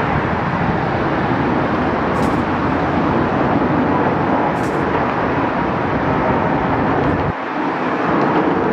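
Jet airliner engine noise, loud and steady with a faint whine. The low rumble drops away suddenly near the end.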